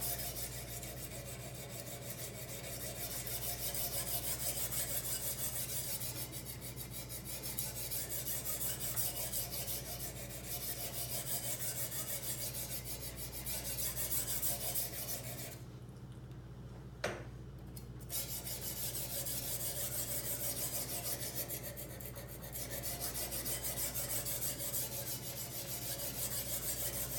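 Sharpening stone of a Kazak UBR guided knife sharpener scraping back and forth along a large kitchen knife's edge in steady strokes. The strokes stop for about two seconds near the two-thirds mark, with a single light click in the gap, then resume.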